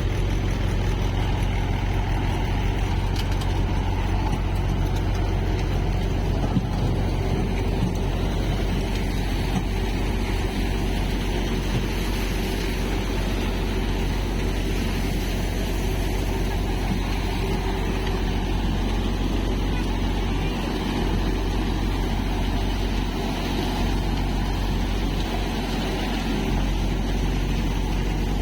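Tractor engine driving a Malwa multicrop thresher, running steadily under load with a deep hum and the thresher's noise over it.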